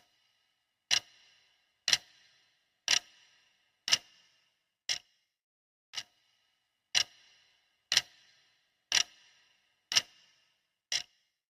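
Clock ticking steadily, one sharp tick every second, each with a brief ring after it.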